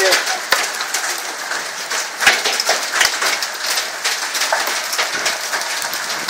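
Heavy rain falling steadily, with irregular sharp drop strikes close by.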